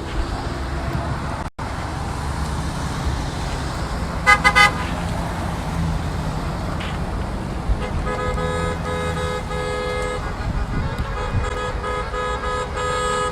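Car horns honking over the low rumble of running vehicles: two short toots about four seconds in, then long horn blasts from about eight seconds on.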